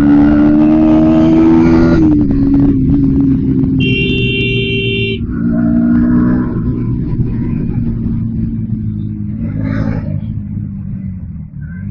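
Bajaj Pulsar NS160 motorcycle engine running under the rider in traffic, its note held steady and then dropping off about two seconds in as the throttle eases. A vehicle horn sounds for about a second and a half around four seconds in, over surrounding traffic noise.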